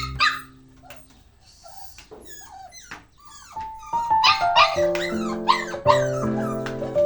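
Dog whining and yipping in short, high, repeated calls, sparse at first and coming thick and fast from about four seconds in, over background music with steady keyboard notes.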